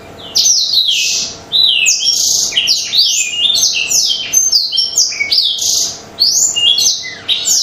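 Black-throated canary (blackthroat) singing a fast, continuous song of quick rising and falling notes. It pauses briefly twice.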